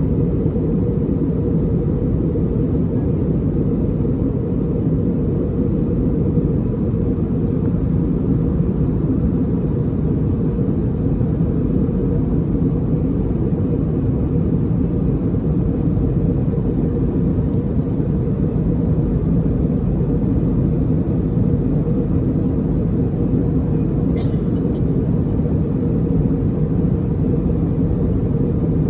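Steady low roar of cabin noise inside an Airbus A321neo in flight, engines and airflow heard from a window seat in the rear of the cabin, with one faint click about two-thirds of the way through.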